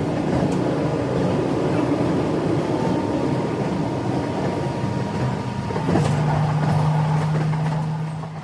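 Train running, a steady mechanical noise. A steady low hum comes in about six seconds in.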